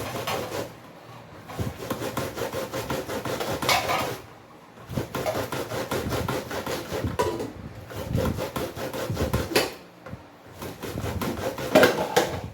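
Fresh ears of corn being grated by hand on a sharp grater: fast rasping strokes in runs of a few seconds, with short pauses between the runs.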